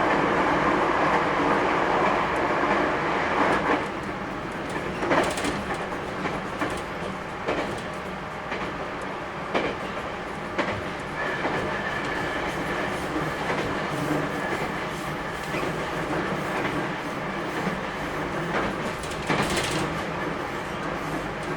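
Running noise of an 811 series electric train heard from inside a passenger car, easing after about four seconds, with the wheels clacking over rail joints at intervals.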